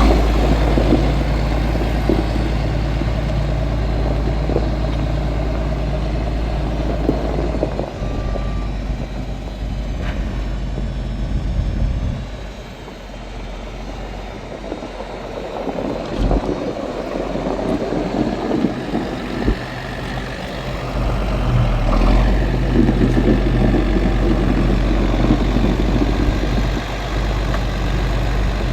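John Deere 4630 tractor's six-cylinder diesel engine running steadily. It grows quieter and loses its low rumble for several seconds in the middle, then comes back up louder.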